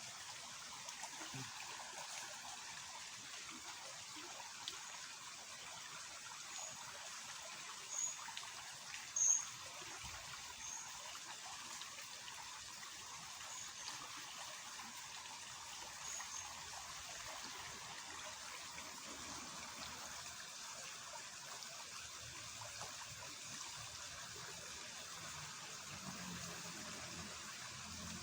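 Steady rush of water flowing fast through a ditch swollen by rain. A few short, high chirps stand out around the middle.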